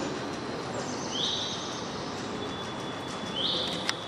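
A bird's high chirp, twice, about two seconds apart: each a quick rising note that holds its pitch briefly. A sharp click comes just before the end.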